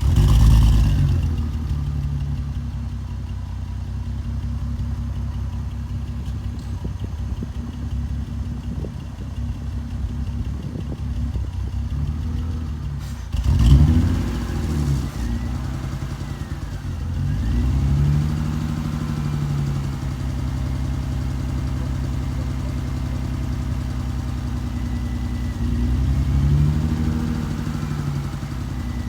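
Straight-piped BMW E46 320i inline-six exhaust idling with a 'drowning' note, loud at the very start, then blipped up and back down a few times: about halfway through, a few seconds later, and near the end.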